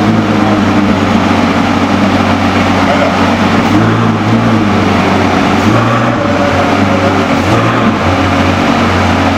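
Novitec N-Largo Ferrari F12berlinetta's V12 engine idling at a standstill, a steady low note whose pitch wavers slightly now and then.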